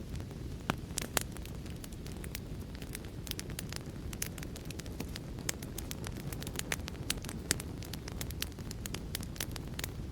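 Wood fire crackling: a steady low rumble of flames with many sharp, irregular pops and snaps, several a second.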